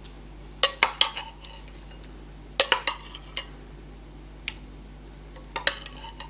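Dishes and cutlery being handled: sharp clinks and clatters come in quick clusters about half a second in, near three seconds, and again near six seconds, with a single clink in between.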